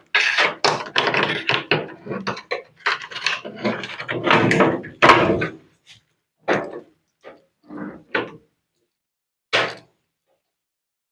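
Washing machine parts being handled during disassembly: a quick run of clattering knocks for about six seconds, then a few separate thuds.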